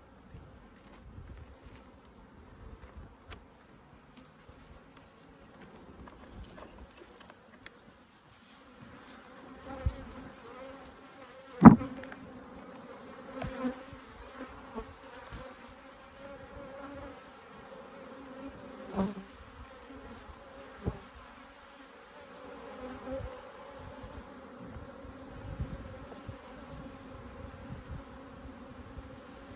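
Honeybees buzzing in a steady hum that grows stronger about eight seconds in, with a few sharp knocks, the loudest about twelve seconds in.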